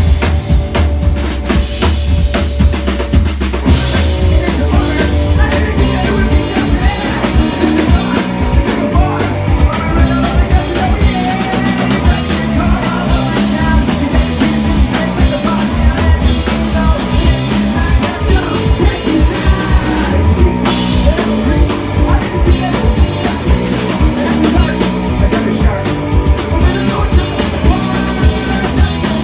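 Rock band playing live, with drum kit, bass drum, guitars and singing at a steady beat.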